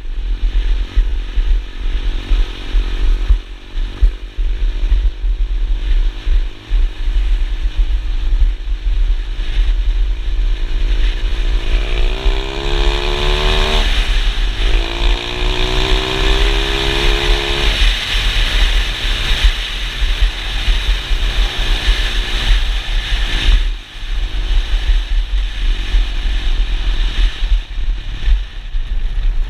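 Pit bike engine running under way, revving up twice in the middle as the pitch climbs, drops and climbs again. A heavy low rumble, like wind buffeting the microphone, runs beneath it.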